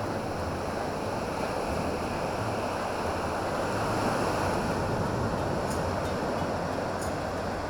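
Steady rush of wind over the microphone with a low, even hum underneath, as from a Honda PCX125 scooter being ridden along at speed.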